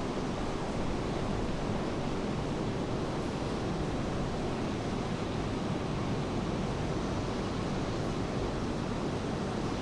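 Ocean surf washing in a steady, unbroken rush.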